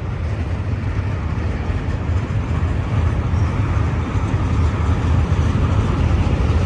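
Empty autorack freight cars rolling past, a steady rumble of steel wheels on rail that grows slightly louder.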